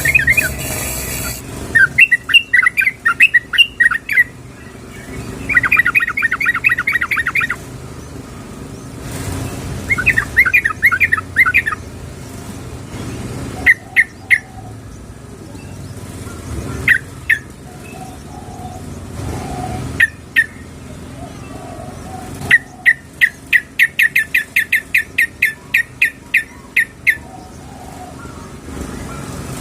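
Yellow-vented bulbul (trucukan) calling: three quick bubbly chattering phrases, then a few sharp single and paired notes, then a long run of sharp notes at about four a second. The uploader presents it as a female's call to draw in a male.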